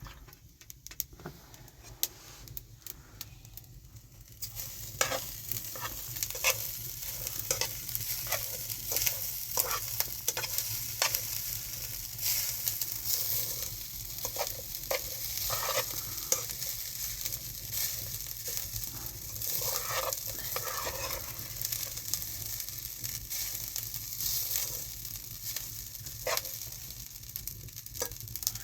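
Food frying and sizzling in a pan, with scattered clicks and scrapes of stirring. The sizzle starts about four seconds in and then runs on steadily.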